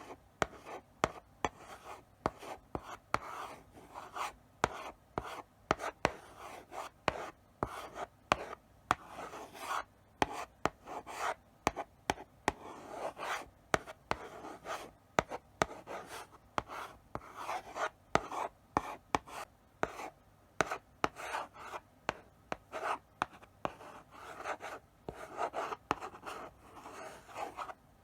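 Chalk writing slowly on a blackboard: a steady run of short scratchy strokes, broken by frequent sharp taps as the chalk meets the board.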